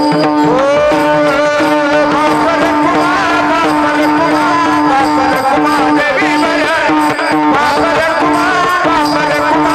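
Devotional kirtan music: a woman's voice singing a melismatic, wavering line over a steady held drone.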